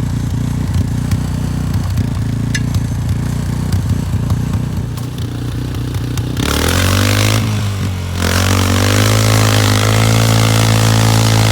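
Yamaha's engine idling, then revved hard about six seconds in, easing briefly and revving again, held high under load as it pulls against the stuck engine, with a loud hiss joining the revving.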